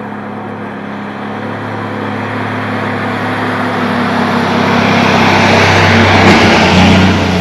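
Motor vehicle engine running steadily with road and wind noise, growing steadily louder to a peak about six to seven seconds in.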